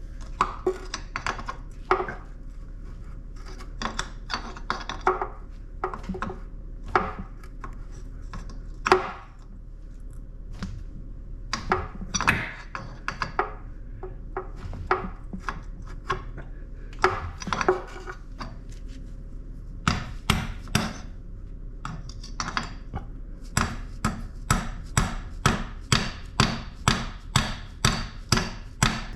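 Metal tools knocking and scraping on the car's front axle and suspension as the axle is worked loose without room for a pry bar. Scattered blows and scrapes at first, then a steady run of hammer strikes, two or three a second, near the end.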